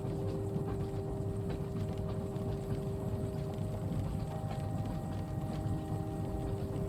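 Moving train heard from inside the carriage: a steady low rumble with a faint hum of a few held tones and scattered light ticks.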